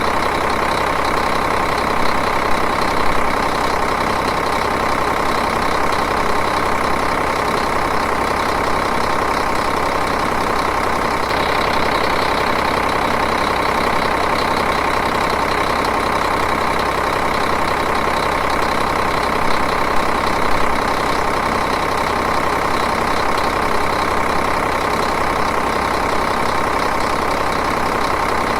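Diesel engine idling steadily and evenly.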